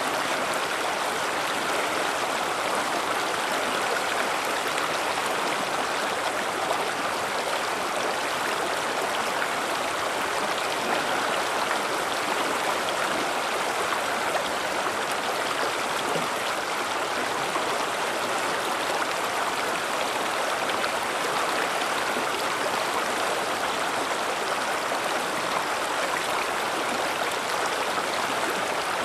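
River water flowing over rocks: a steady, even rush with fine splashing and gurgling that does not change in level.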